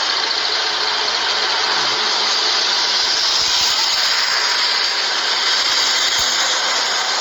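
Vehicle engine running under way with its radiator drained of coolant, heard as a steady, loud hiss of engine and road noise.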